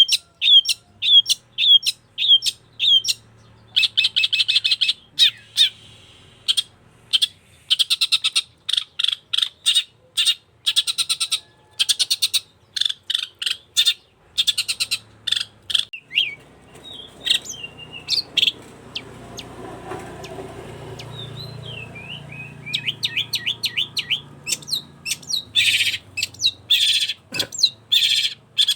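Long-tailed shrike (cendet) singing in full voice: fast runs of sharp, repeated chirps and rapid trills. There is a lull about halfway through with only low background noise, then the chirping starts again.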